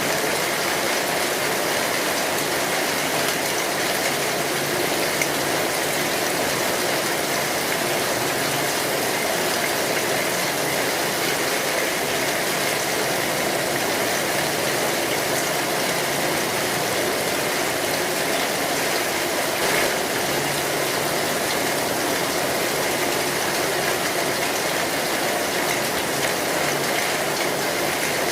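Steady heavy rain drumming on a metal roof, a dense, even patter that doesn't let up.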